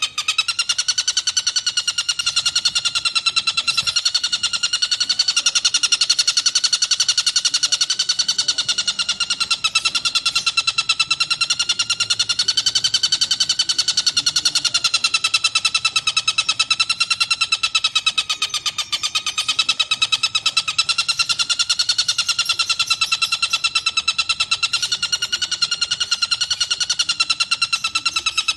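Tengkek buto kingfisher giving a long, continuous rattling trill: a very fast run of rapid notes held at one pitch that wavers only slightly, without a break.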